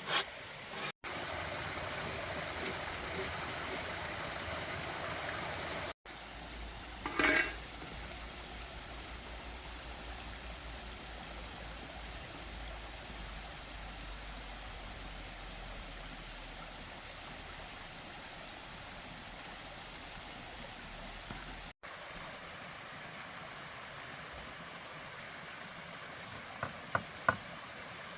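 Steady outdoor hiss with a constant high insect-like drone, broken by edit cuts, with a brief sound about seven seconds in and a few sharp knocks near the end.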